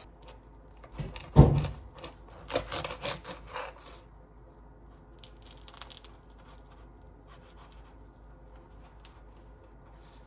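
Handling noise: a dull thump about a second and a half in, then rustling and light clicks for a second or two, trailing off into a few faint clicks.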